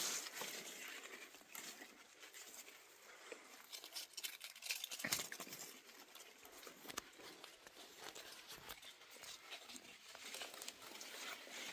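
Rustling and crackling, with scattered small clicks and snaps.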